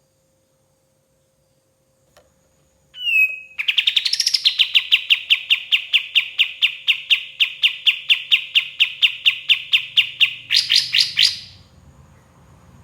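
Kapas tembak bulbul singing: a short slurred note, then a long, fast trill of repeated chips, about six a second, that ends in a brief louder flurry.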